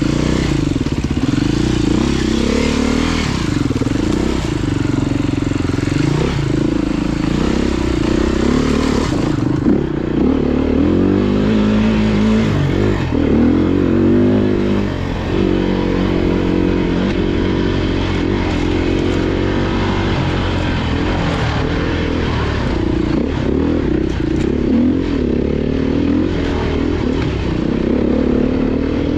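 Off-road motorcycle engine revving up and down, the throttle opened and closed over and over without a break.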